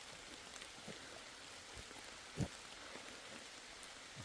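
Rain falling steadily in woodland, with a few soft low thuds, the loudest about two and a half seconds in.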